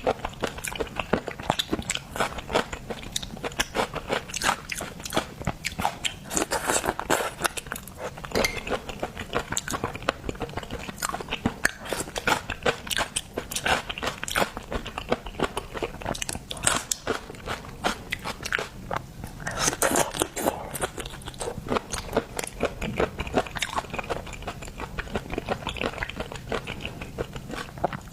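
Close-miked eating sounds: seafood being bitten and chewed, with dense, irregular wet clicks and crunches.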